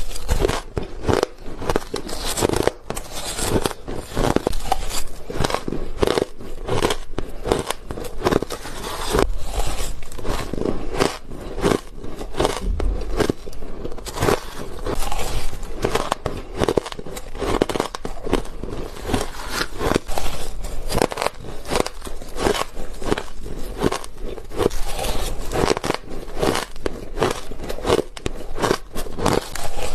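White ice being bitten and chewed close to the microphone: a continuous run of crisp crunches and crackles, several per second.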